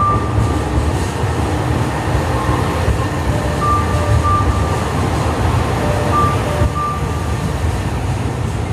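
Diesel train running at a station, a steady low rumble, with a chime melody of short clear notes repeating over it.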